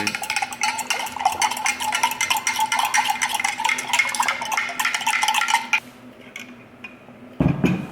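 Pre-workout being stirred in a glass Mason jar: rapid, continuous clinking against the glass with a ringing tone, stopping about six seconds in.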